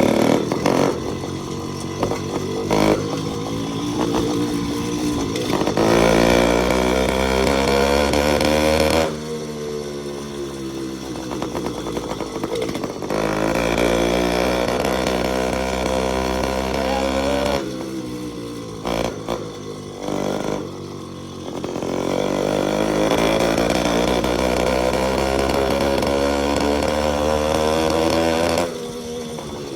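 Small single-cylinder motorcycle engine revving hard, its pitch rising and falling. It is held high for several seconds at a time and drops back sharply three times.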